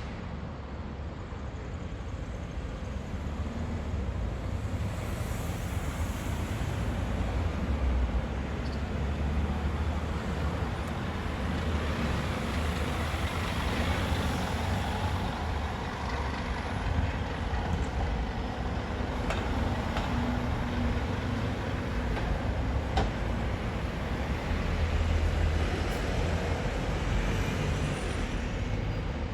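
Scania OmniLink single-decker bus with its diesel engine running, mixed with passing road traffic. The noise swells through the middle and there are a few brief clicks.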